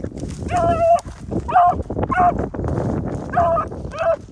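A dog barking repeatedly, five short barks at a steady pace, the first a little longer, over heavy wind noise on the microphone.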